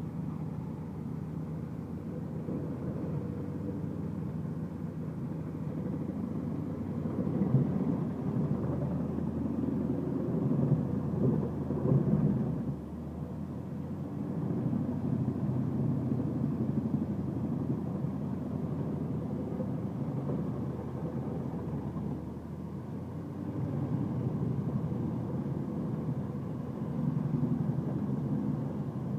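Large industrial wood chipper running under load, chipping wood as it is fed in: a steady low rumble that swells into louder chipping surges about eight to twelve seconds in and again near the end.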